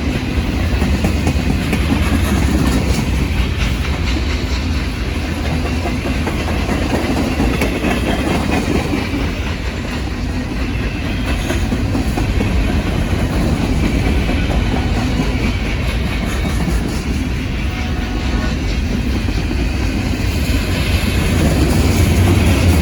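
Norfolk Southern freight train rolling past at close range: a steady, loud rumble of the cars, with wheels clacking over the rail joints.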